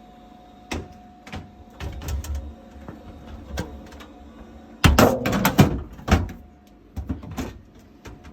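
Knocks and clicks of boiler casing parts being handled and refitted by hand: scattered knocks, then a loud cluster of knocks about five seconds in, and a few more near the end.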